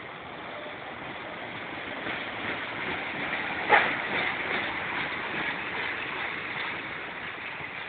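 A train passing, a noisy rush that builds and then fades, with a single sharp knock about four seconds in.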